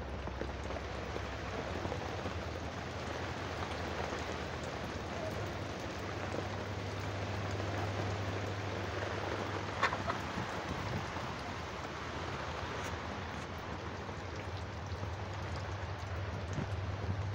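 Steady tropical-storm rain falling, with one short sharp tick about ten seconds in.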